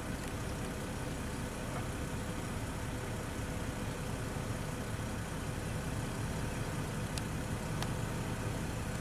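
A steady, low engine hum with no change in pitch or level, and a couple of faint clicks near the end.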